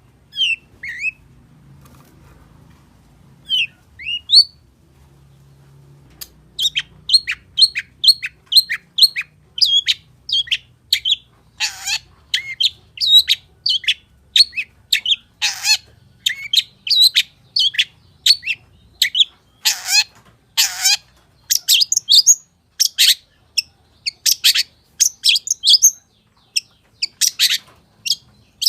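Long-tailed shrike singing: a few scattered rising chirps, then from about six seconds in a fast, continuous string of short sharp notes, two or three a second, broken by a few harsh, rasping notes.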